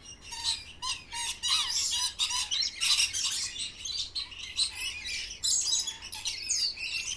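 Many birds calling at once: a busy chatter of rapid, overlapping high chirps with the odd squawk.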